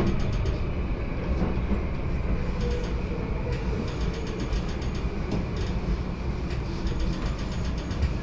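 Inside the carriage of a JR Yamanote Line commuter train running on the rails: a steady rumble of wheels and running gear, with fast, even ticking above it.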